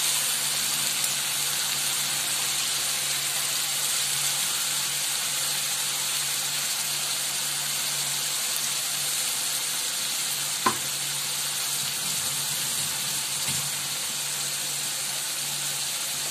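Onion, ginger and garlic paste sizzling steadily in hot mustard oil in a kadai, with one sharp click about ten and a half seconds in.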